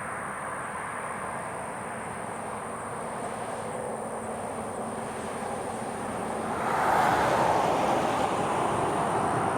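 Freight train rolling past: a steady rumble of wheels and cars that grows louder about seven seconds in.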